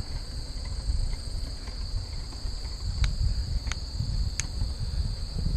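Steady high-pitched chorus of crickets and other insects over a low rumble, with three sharp ticks in the second half.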